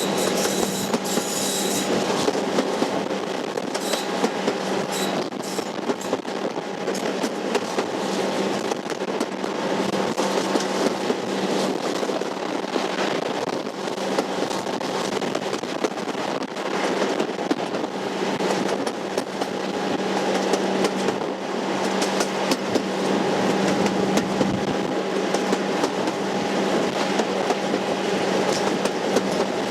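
Heritage diesel-hauled train running along the track, with wheels clicking over the rail joints over a steady hum.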